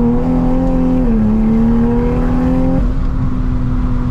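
Toyota GR Supra's engine pulling at full throttle, its note climbing steadily, with a quick drop in pitch at an upshift about a second in. Near the end the note abruptly thins and flattens as the car cuts power and drops into limp mode.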